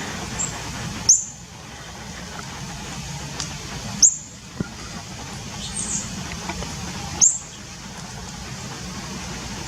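Three sharp, high, short chirps from a small animal, about three seconds apart, over a steady low background hum.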